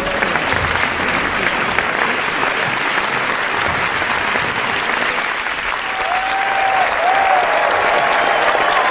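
Crowd applauding, a dense steady clatter of many hands clapping. From about six seconds in, a few short raised voices call out above the clapping.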